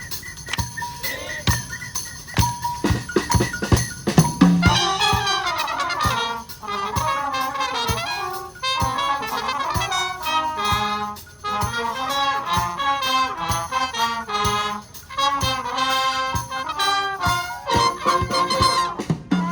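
Youth wind band playing live. Percussion keeps a steady beat at first, then the brass and woodwinds come in about four seconds in and carry a melody with short breaks between phrases.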